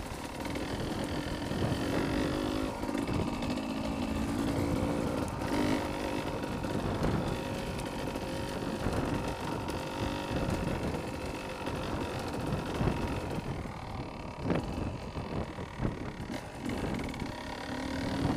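Beta 300 RR two-stroke single-cylinder enduro motorcycle engine running under way, revs rising and falling over rough ground, with a sharp knock late on.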